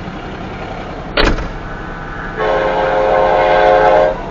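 Union Pacific diesel locomotive's air horn sounding one long blast of about two seconds, a steady multi-note chord, over the train's steady rumble. A short, sharp burst comes about a second in.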